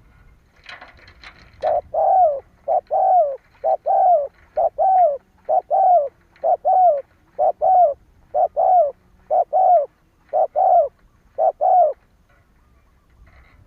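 Spotted dove cooing in a rapid run of paired, arched coos, about a dozen notes over ten seconds: the excited call used as a decoy to provoke male spotted doves. A brief scratchy rustle comes just before the cooing starts.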